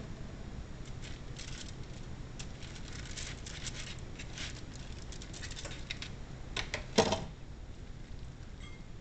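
Hands pressing crouton stuffing into raw chicken breasts, making a run of small irregular clicks and rustles, with one louder knock about seven seconds in.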